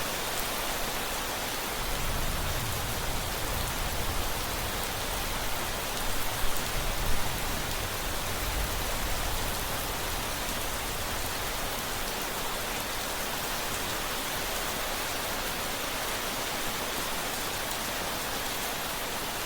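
Steady heavy rain with a low rumble of thunder rolling in about two seconds in and fading out by about ten seconds.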